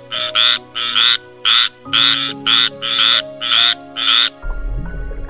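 An animal calling over background music: a dozen or so short rasping calls, about two a second and many in pairs. About four and a half seconds in the calls stop and a low rumble begins.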